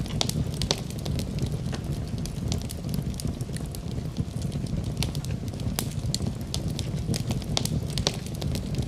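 Wood fire crackling, with frequent sharp, irregular pops and snaps over a low, steady rumble of the flames.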